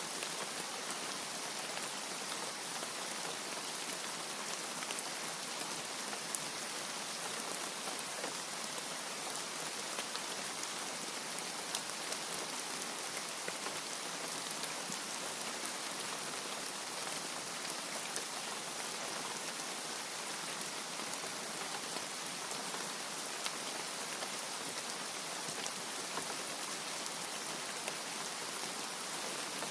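Steady rain, an even hiss with scattered individual drops ticking through it.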